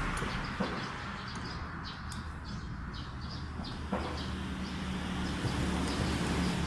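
Small birds chirping repeatedly over a steady low hum, with two light clicks about half a second and about four seconds in.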